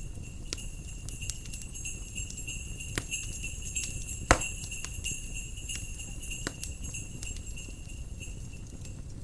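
Bells jingling steadily over a crackling fire, stopping near the end. Scattered crackles throughout, with one sharp loud pop about four seconds in.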